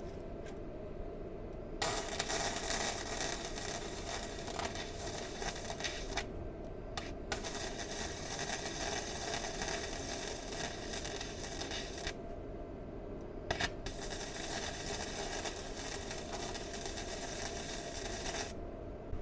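Welding arc crackling as a steel patch is welded onto a car's rusted chassis rail, in four runs of a few seconds each with short pauses between, over a steady low hum.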